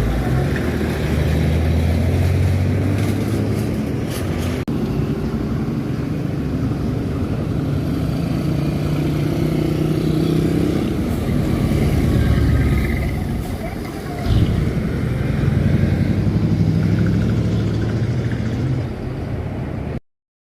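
Trucks passing on the road, their engines running with a low drone that rises and falls as each one goes by. The sound cuts off abruptly near the end.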